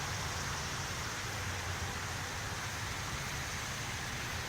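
Steady outdoor background noise: an even hiss with a low hum beneath it.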